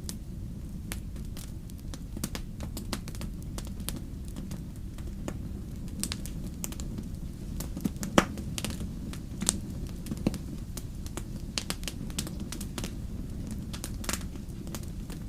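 Wood fire crackling: irregular sharp pops and snaps over a steady low rumble, with the loudest snap about eight seconds in.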